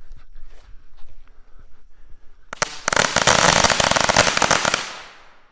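A string of Ghost firecrackers going off: a rapid, dense run of bangs starting about two and a half seconds in and burning through in about two seconds.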